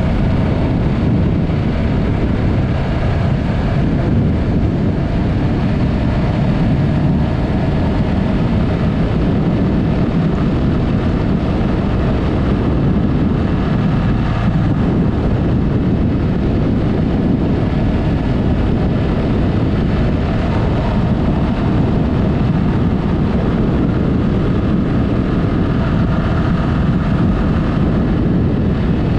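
Yamaha MT-03's parallel-twin engine running through an aftermarket Mivv exhaust at a steady cruise, mixed with wind noise on the camera microphone.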